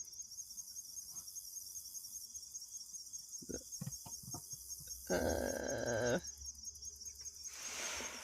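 Crickets chirping in a steady, pulsing high trill, with a few sharp clicks a few seconds in. About five seconds in there is a louder sound lasting about a second.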